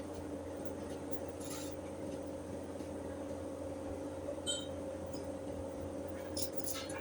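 A steady mechanical hum, with a few faint light clinks of metal or glass.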